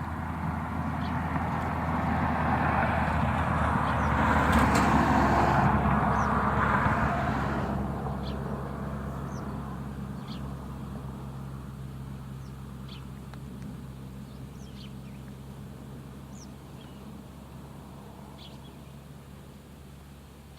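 A motor vehicle passes by, its noise swelling to a peak about five seconds in and then fading away, over a steady low hum. Short, high bird chirps sound now and then throughout.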